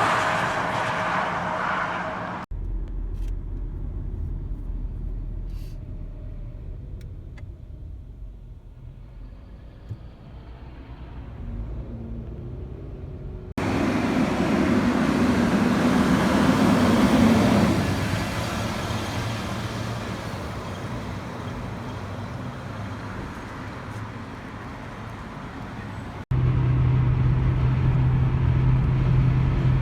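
Road trucks driving past across several spliced clips: a distant low rumble, then a truck building up and passing loudly about halfway through, and near the end a steady low engine drone.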